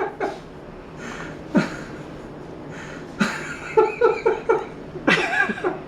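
Soft chuckles, breaths and murmurs from a person close to the microphone, in several short bursts over a faint steady background hiss.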